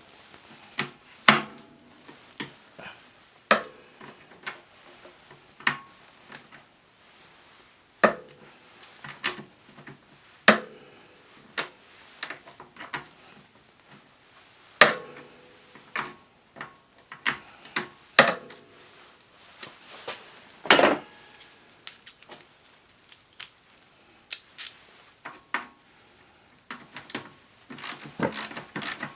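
Hand tools and metal parts knocking and clinking during an ATV teardown. Irregular sharp clanks come a second or two apart, some with a short metallic ring. Near the end a fast run of clicks starts.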